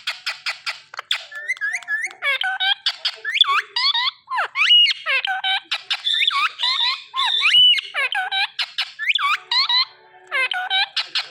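A pet parrot calling rapidly: a fast, continuous run of short chirps and squawks, with two longer whistled notes partway through.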